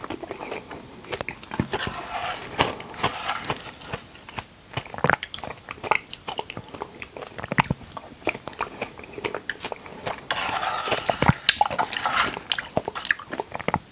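Close-miked eating sounds: chewing and biting, with many short wet mouth clicks and two longer squishy stretches.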